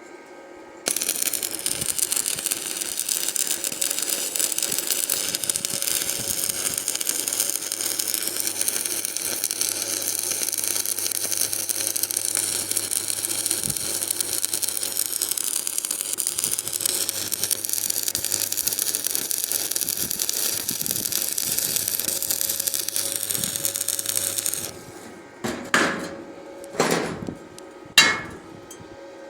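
Stick arc welding with two electrodes held together: a steady, loud crackling arc with a low hum underneath, starting about a second in and cutting off suddenly after about 24 seconds. Near the end come three or four sharp separate metal knocks.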